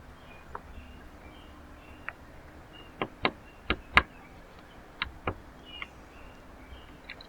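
Birds at a backyard feeder: about ten sharp, irregular taps and clicks, the loudest around four seconds in, with faint short chirps between them.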